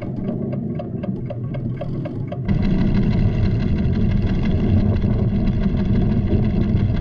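Ticking of a recording instrument over a deep rumble. About two and a half seconds in, the rumble suddenly becomes much louder and steady: a cartoon sound effect for the volcano's tremors.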